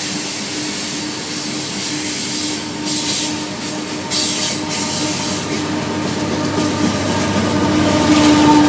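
Union Pacific coal train rolling past, the cars' wheels rumbling and hissing on the rails with short flares of high hissing noise. A steady hum grows louder near the end.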